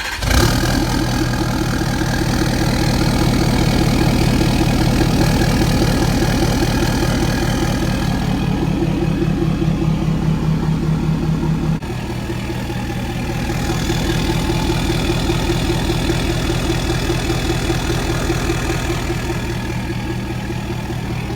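Ford 6.7 L Power Stroke V8 diesel idling steadily through a large new exhaust tip, with an even, fast pulsing rumble. The level drops suddenly about twelve seconds in, then carries on.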